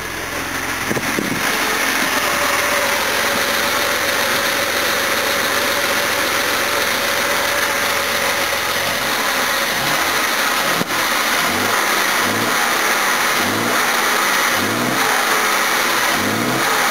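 The 1969 Jaguar XJ6's 4.2-litre XK straight-six running strong on its first start as a freshly installed, high-compression engine. It climbs over the first couple of seconds and then runs steadily, with a short rising note repeating about once a second in the second half.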